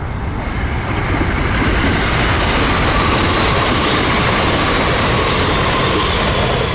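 White limited-express electric multiple unit running past on the line, a loud steady rumble and rush of rolling wheels that builds over the first couple of seconds, with a faint whine in it.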